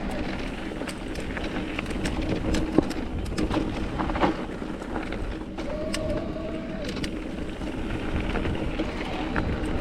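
Mountain bike rolling over loose gravel and rock: a steady tyre and wind rumble, with scattered clicks and knocks from stones and the rattling bike.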